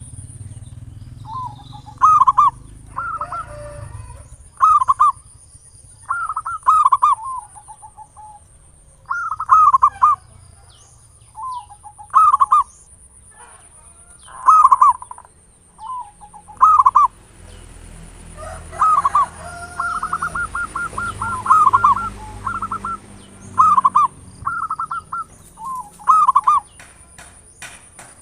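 Zebra dove (perkutut) cooing in short repeated phrases every second or two. About two-thirds of the way through comes a quick run of staccato notes. A faint steady high-pitched whine runs underneath.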